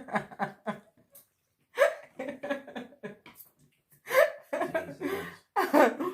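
Laughter: several short runs of voiced, bursting laughs from people at the table.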